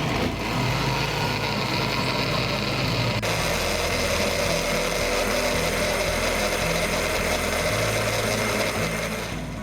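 Electric blender running steadily, blending cake batter; it starts abruptly and stops right at the end, its tone shifting slightly about three seconds in.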